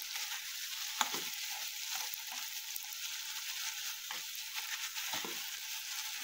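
Onions, green chillies and garlic frying with melting cheese slices in a kadai: a steady sizzle, with a spatula stirring and scraping the pan a few times.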